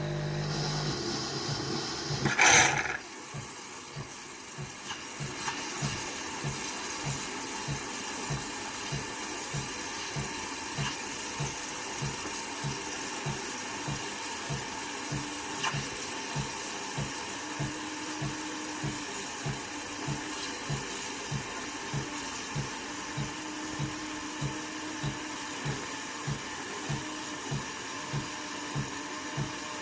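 De'Longhi Dinamica Plus bean-to-cup coffee machine running through a drink cycle. It starts with a hum, then a short loud burst about two and a half seconds in, then a steady hiss with a regular low pulse about twice a second.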